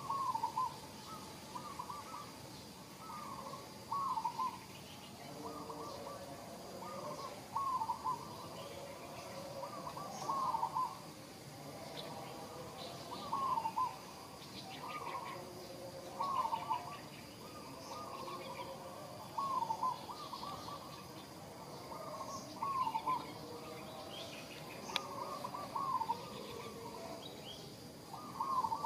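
A bird calling over and over: short hooked notes, often in pairs, about one every second or two.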